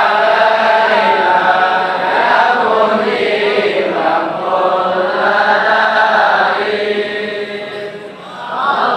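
Voices chanting Arabic salawat, devotional praise of the Prophet, in long drawn-out melodic phrases. The singing eases off briefly about eight seconds in, then the next phrase begins.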